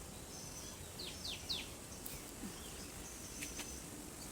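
Wild birds calling: a quick run of three high, downward-sliding notes about a second in, with a few other short chirps over faint outdoor background noise.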